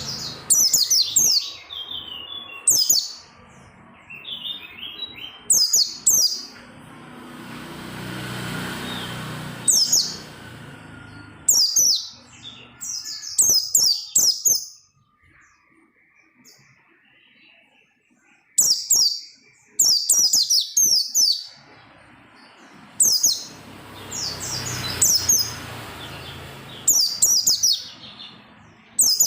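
White-eye (pleci) singing hard, in short rapid bursts of high twittering chirps every few seconds, with a quiet stretch of about three seconds around the middle.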